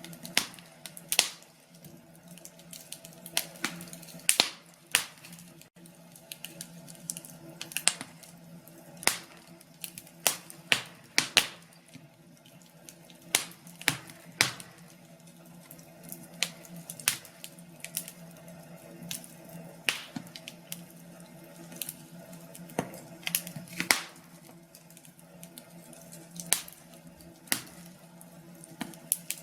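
Wood fire crackling in a fireplace, with irregular sharp pops and snaps over a faint steady low hum.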